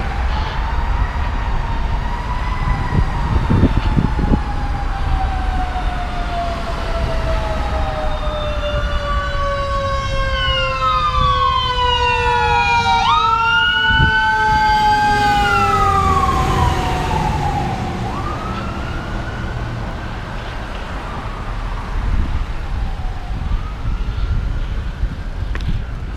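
Emergency vehicle sirens wailing, several at once, their pitches rising and falling and crossing each other. They grow loudest around the middle and fade away near the end, over a steady low rumble of wind and road noise.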